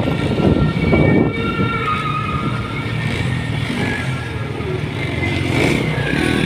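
Motorcycle engine running steadily while riding, with some rough wind noise at the start.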